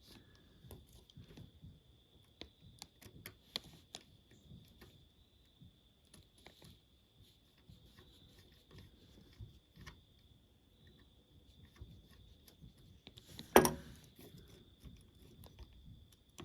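Faint scattered clicks and taps of small metal parts as the valve gear and drive rods of a postwar Lionel toy steam locomotive are handled and adjusted, with one louder knock about 13 seconds in.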